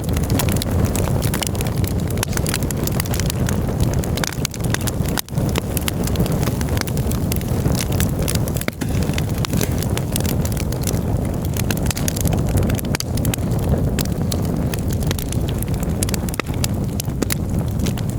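Campfire burning with constant crackling and sharp pops under a steady low rumble.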